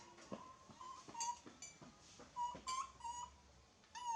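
Baby monkey crying in a string of short, high, squeaky whimpers, each a brief steady pitch, with a few light clicks between them.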